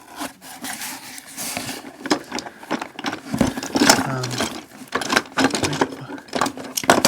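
Wooden toy trains knocking and clattering against each other while being rummaged through by hand, with rubbing and scraping.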